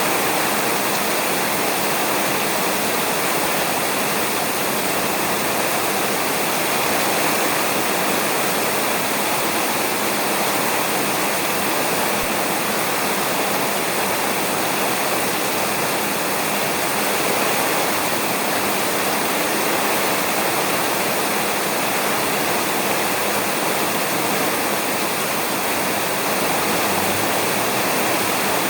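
Heavy rain falling steadily on a roof, an even rushing hiss with no thunder.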